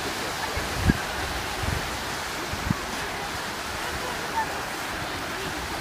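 Steady rushing noise of waves and wind, with a few brief dull thumps in the first three seconds.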